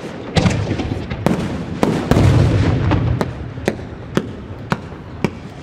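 Aerial firework shells bursting with sharp bangs, with a deeper rumbling boom about two seconds in, followed by lighter pops about twice a second.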